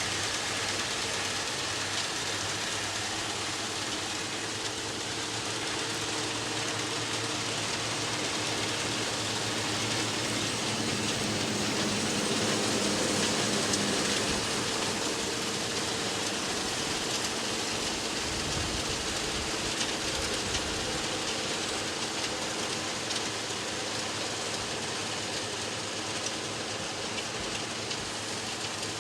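Diesel tractor engine running steadily with a straw baler working, giving a constant drone over mechanical clattering and a hiss.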